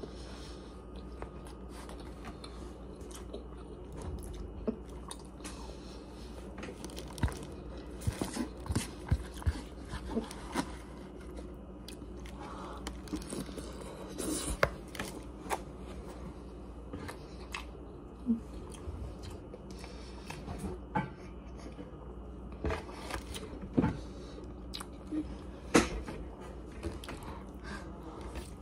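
Close-up chewing of Chinese takeout chicken, rice and vegetables, with irregular clicks and scrapes of a metal fork against the food container.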